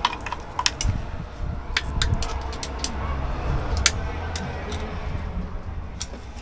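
Irregular sharp clicks and clinks of hand tools and parts being handled, over a steady low hum.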